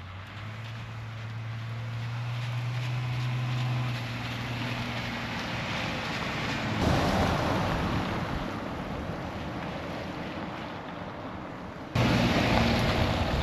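A Jeep Wrangler drives up a gravel road toward the microphone with its engine humming, growing louder as it approaches, while wind buffets the microphone. About twelve seconds in, the wind noise and the engine hum jump suddenly louder.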